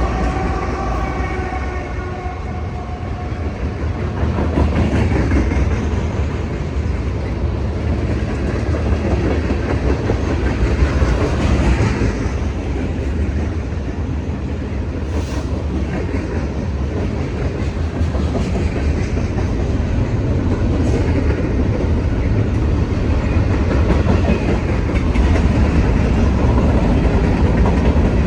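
A train running past on the tracks: a loud, steady rumble of wheels on rail with clickety-clack. A train horn's chord trails off in the first two or three seconds.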